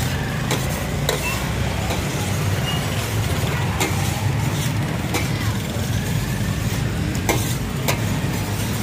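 Kebab patties frying in oil on a large flat griddle, with a metal spatula clicking and scraping on the griddle now and then as they are turned. A steady low rumble runs underneath.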